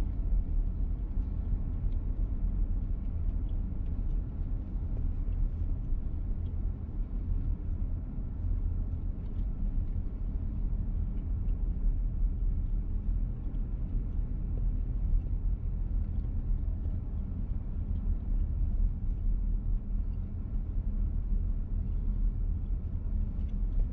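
VW T-Roc petrol car driving steadily, its engine and tyre rumble heard from inside the cabin.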